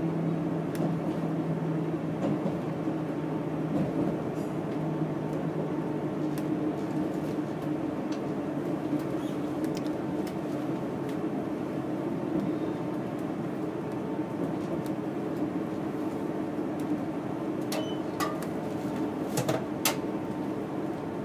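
Inside a passenger train carriage: the steady rumble and hum of the train running on the track as it pulls into a station. A low drone drops away about two seconds in, and a few sharp clicks come near the end.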